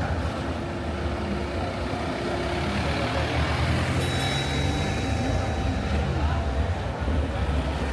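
Busy city street: a steady low rumble of motor traffic with people talking in the background.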